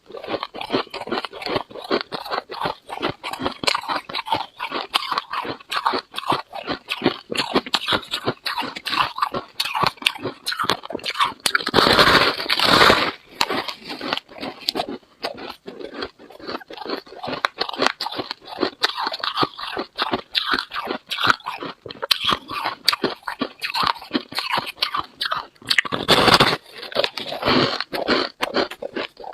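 Freezer frost being bitten and chewed: a steady run of rapid crisp crunches, with a louder, longer crunch about twelve seconds in and another a few seconds before the end.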